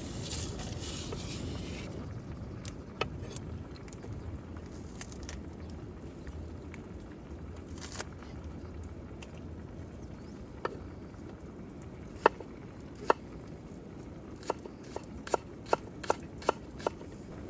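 Campfire crackling, with sharp pops from the burning wood, a quick run of louder pops in the second half.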